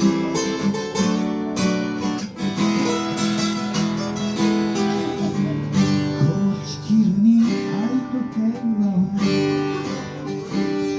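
Acoustic guitar being strummed in a live song, with a voice singing a wavering melody over it for a few seconds partway through.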